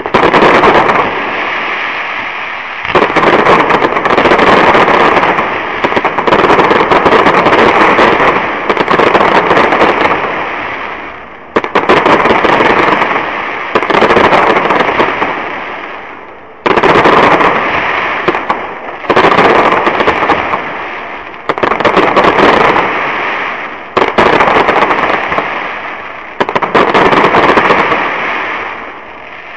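Aerial fireworks shells bursting in quick succession, loud: a sharp bang roughly every two seconds, each followed by a dense crackle that fades away before the next burst.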